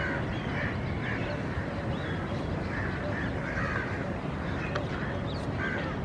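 Birds calling outdoors in short calls that repeat about once or twice a second, over a steady low background rumble.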